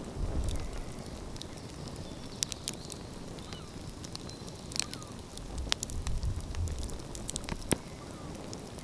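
Wood fire crackling in the open, scattered sharp pops and snaps over a steady hiss, with a low rumble of wind on the microphone swelling about six seconds in.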